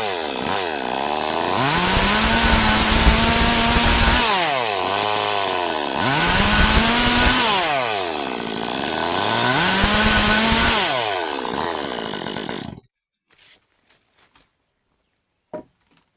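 Stihl MS 382 two-stroke chainsaw running at high revs while cutting. Its engine speed sags and climbs back three times, about four seconds apart, then the sound stops abruptly near the end, leaving only a few faint clicks.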